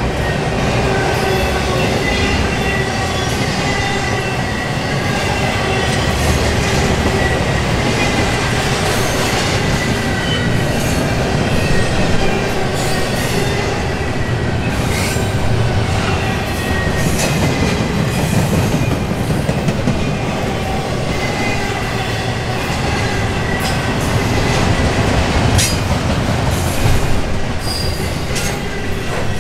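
Double-stack intermodal container train rolling past on its well cars: a steady rumble of steel wheels on the rails, with thin wheel-squeal tones running through it and a few sharp clicks and clanks.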